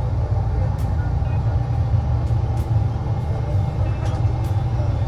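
Steady low rumble of a passenger train's interior, with a faint steady tone and a few light clicks.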